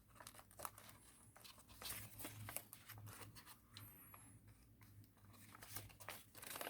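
Faint rustling and crinkling of origami paper being handled and folded, heard as short scattered ticks and rubs.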